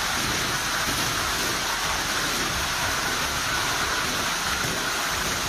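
Heavy thunderstorm downpour falling steadily, an even hiss of rain without distinct separate impacts.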